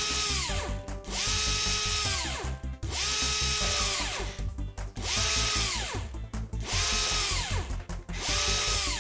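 Drill running in about six short bursts, each one cutting off with a falling whine as the motor spins down. Background music with a steady beat underneath.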